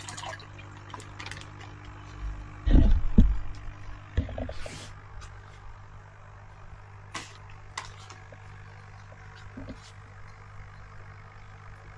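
Steady low hum with knocks and thuds of a camera being handled and set up, the loudest cluster about three seconds in, then a few light clicks.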